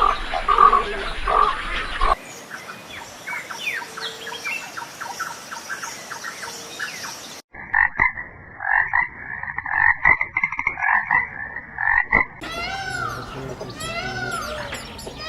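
Animal calls in several short clips cut one after another: quick chirps over a hiss, then a rhythmic repeated call, then a series of arched calls.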